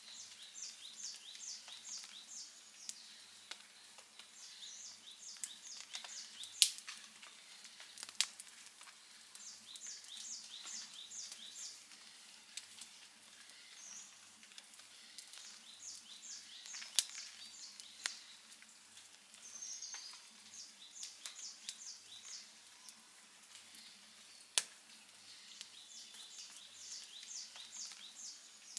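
Outdoor wood campfire crackling softly, with a handful of sharp, loud pops. Behind it, short series of high chirps repeat every few seconds.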